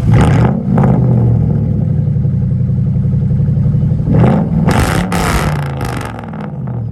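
Car engine revved at a standstill: two sharp blips of the throttle in the first second, then a longer, louder rev about four seconds in, with the engine note falling back toward idle near the end.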